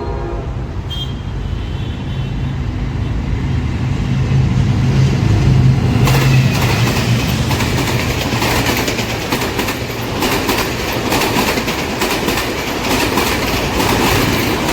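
A diesel-hauled passenger train passes close by. A General Electric locomotive goes first with a deep engine rumble. From about six seconds in the coaches follow, rattling past with their wheels clacking rapidly over the rail joints.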